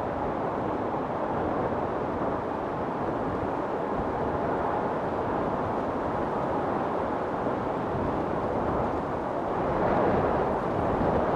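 Storm wind blowing in a steady rush, with a gust swelling up near the end.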